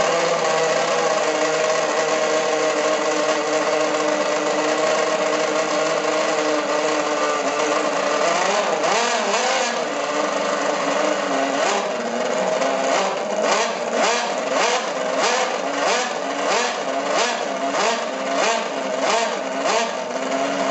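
An engine running steadily, then from about eight seconds in its pitch swings up and down and its sound pulses in a regular rhythm, a little over once a second.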